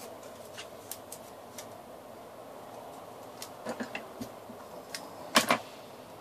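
Paper pieces of a paper airplane being handled and pressed together: scattered small clicks and taps, with a cluster about three and a half seconds in and two louder sharp snaps close together about five seconds in.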